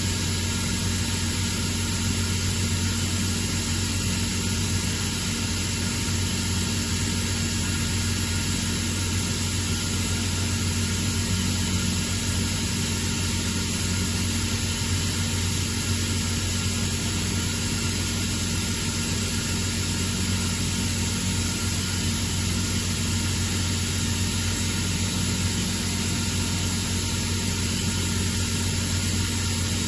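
Atlas Copco ZT132FF oil-free rotary screw air compressor running steadily, a constant low hum with an even hiss over it.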